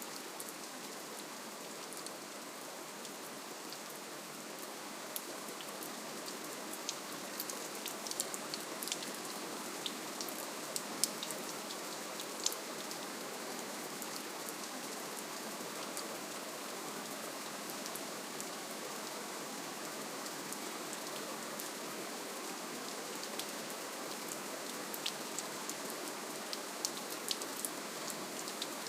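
Steady, soft rainfall: an even hiss of rain with many small, sharp drop ticks on a surface scattered through it.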